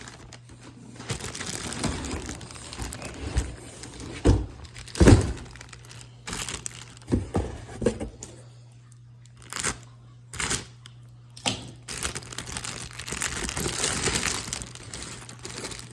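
Packaging crinkling and tearing as a new tool backpack is unwrapped, in long stretches of rustling broken by several sharp knocks and thumps.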